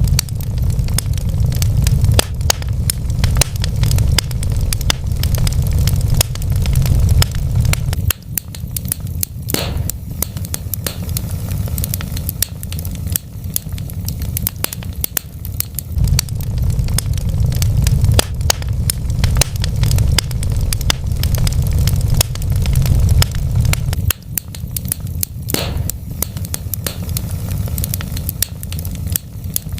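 Wood fire crackling, with many sharp pops and snaps over a steady low rumble of burning logs; the rumble dips briefly twice.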